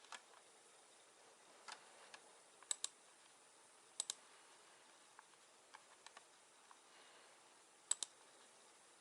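Scattered small sharp clicks over faint hiss. The loudest are three close pairs of clicks, about a quarter, halfway and near the end.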